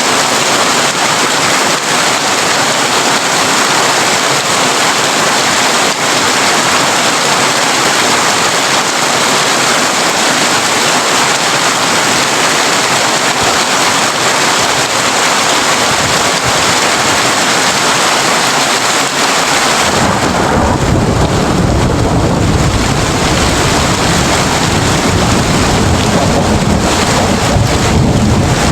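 Heavy rain drumming on a tin roof in a steady hiss. About twenty seconds in, a deep rumble of thunder sets in and carries on.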